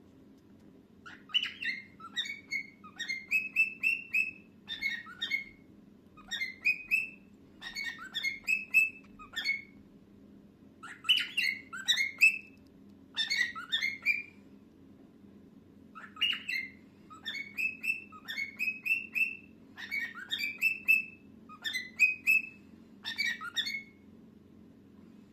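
Pet cockatiel singing: bursts of quick chirps and whistled notes, repeated with short pauses, over a steady low hum.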